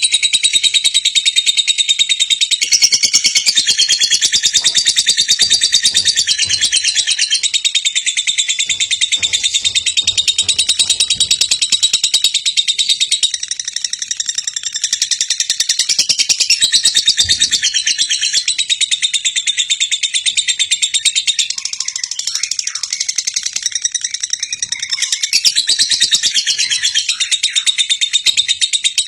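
Lovebird singing a long ngekek: an unbroken stream of rapid, high-pitched chattering trills.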